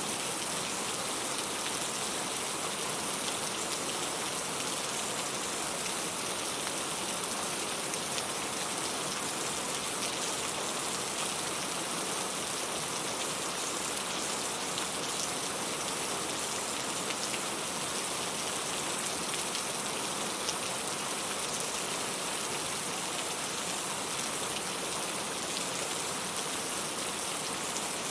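Steady rain falling, an even hiss of many drops hitting a surface, with no change in intensity.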